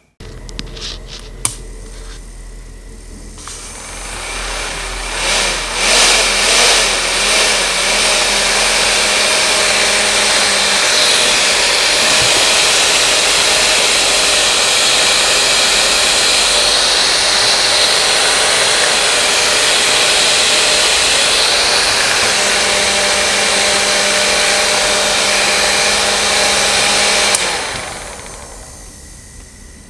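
A small electric fan motor, as in a miniature air conditioner, is switched on with a click and spins up to full speed. It runs with a steady, loud rush of air and a faint motor hum. Near the end another click comes and it winds down.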